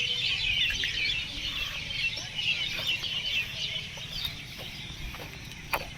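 Many birds chirping together in a dense, continuous chorus that thins out toward the end, over a low rumble, with one sharp click near the end.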